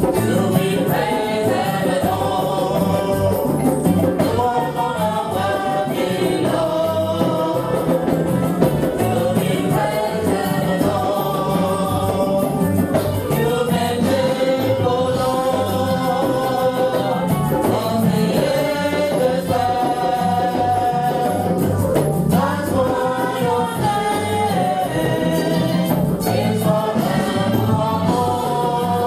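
A choir singing a gospel song over a steady drum beat.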